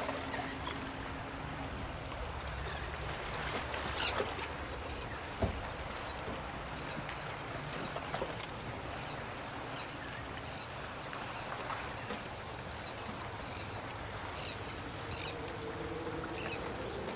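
Birds calling in the open: a quick run of short, sharp calls about four seconds in, then scattered chirps over a steady outdoor hush.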